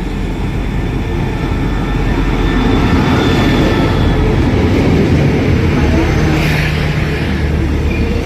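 Diesel railcar running during shunting moves in a station yard: a loud, steady engine rumble, with a low even engine tone settling in about six seconds in.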